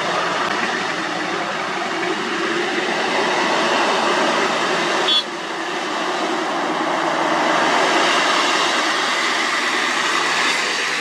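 Heavy road-paving machinery running close by: a loud, steady mechanical rumble with a clattering edge. The level drops suddenly about five seconds in.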